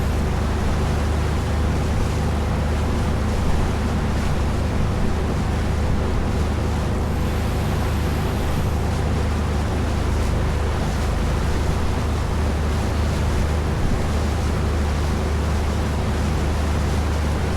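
Small tour boat under way: its engine runs with a steady low drone while water rushes along the hull and wind buffets the microphone.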